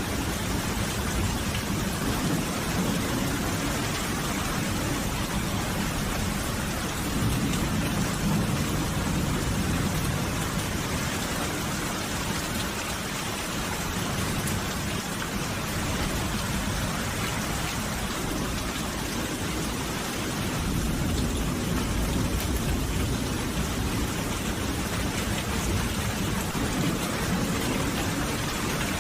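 Steady heavy rain, a dense even hiss, with a deeper low rumble swelling up twice.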